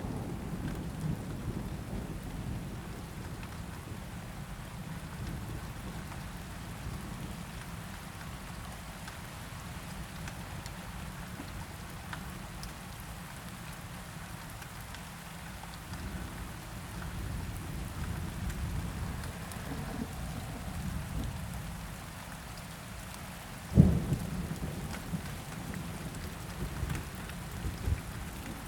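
Steady rain with low rolling thunder rumbling underneath; the rumble is louder at the start and eases off within a couple of seconds. A single sudden sharp crack, the loudest moment, comes near the end.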